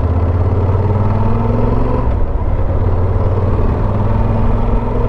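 Motorcycle engine running under way, its note rising, dropping about two seconds in, then climbing again.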